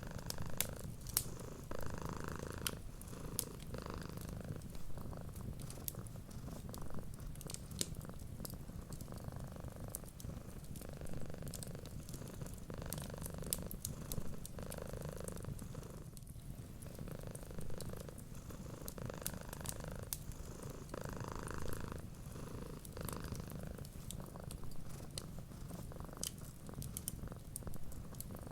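Cat purring steadily, the purr swelling and easing with each breath every second or two, over scattered sharp crackles from a wood fire.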